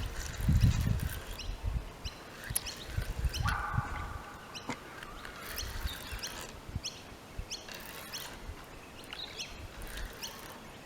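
Birds chirping over and over in short, high calls, with low thumps and rumbles in the first few seconds.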